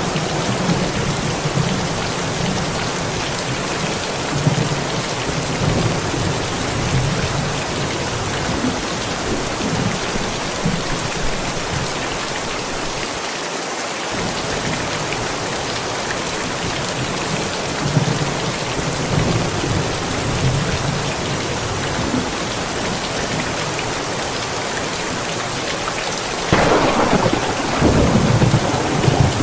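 Steady rain with thunder rumbling low at intervals; a louder roll of thunder sets in near the end.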